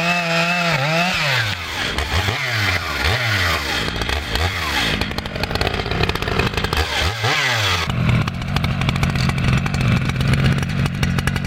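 Two-stroke chainsaw engine revved up and down repeatedly, its pitch rising and falling five or six times. About eight seconds in it changes to a steadier, lower, rougher running note.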